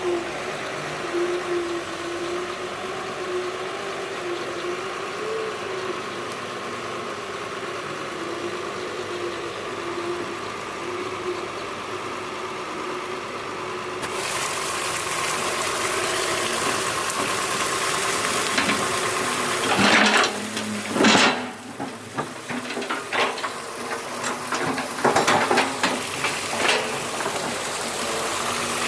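Excavator engine running steadily. Partway through, the sound turns noisier, and then comes a pair of loud knocks followed by a stretch of metallic clattering from the machine working.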